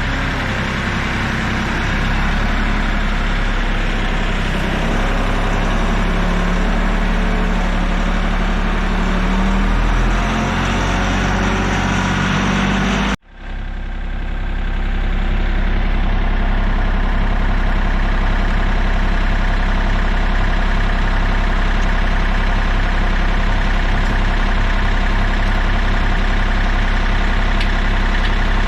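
Kioti CK3510 compact tractor's three-cylinder diesel engine running steadily, its pitch shifting a little in the first half. About 13 seconds in, the sound breaks off abruptly for a moment, then steady running resumes.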